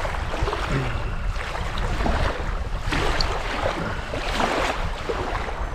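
Gusty wind buffeting the microphone, a steady low rumble with swells, over water lapping.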